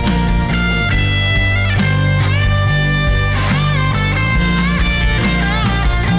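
Live rock band playing an instrumental: an electric guitar holds long lead notes with bends and vibrato, over bass guitar and a full band backing.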